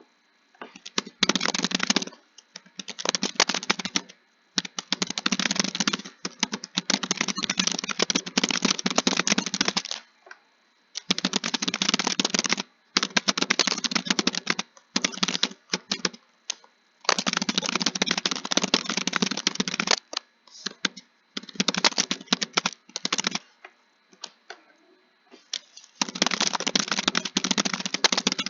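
Fast typing on a keyboard: rapid runs of key clicks lasting a few seconds each, broken by short pauses.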